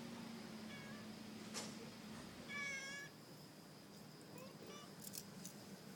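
Stray cat meowing: a short meow about a second in, a longer, louder meow near the middle, and a couple of brief ones later. A sharp click comes about a second and a half in.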